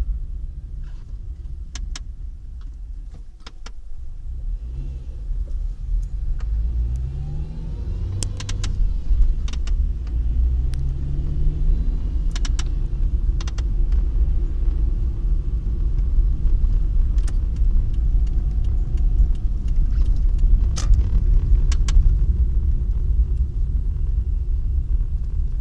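Car running on the road: a steady low rumble with the engine pitch rising twice as it accelerates, and scattered sharp clicks or knocks.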